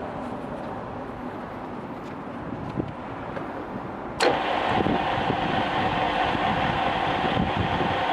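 Takisawa TSL-550 engine lathe starting up: a sharp click about four seconds in, then the spindle and gearhead run with a steady mechanical whir and a held tone.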